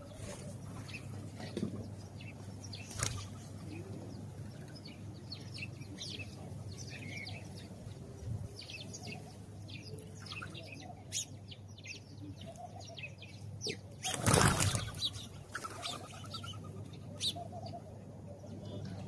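House sparrows chirping over and over in short, scattered calls, with a brief loud flutter of wings about fourteen seconds in.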